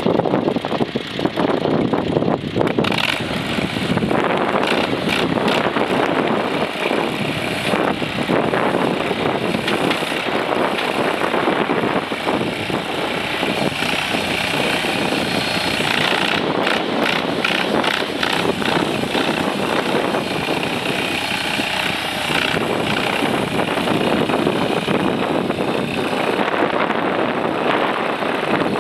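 AGT MX-DRT23 mini skid steer's small engine running steadily, with brief bursts of clatter a few times.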